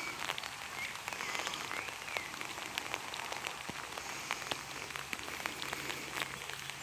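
Steady rain falling, an even hiss dotted with many separate drop ticks landing close by.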